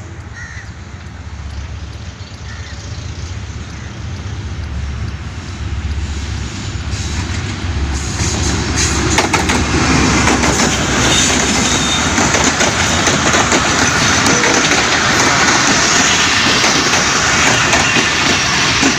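Shalimar Express passenger train pulling into the station: a low rumble that grows steadily louder, then about eight seconds in the rushing and clatter of the wheels and carriages rises and stays loud.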